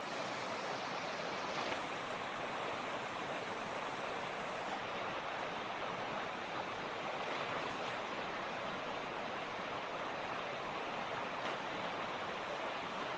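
Mountain creek rushing steadily over rocks: an even, unbroken water noise.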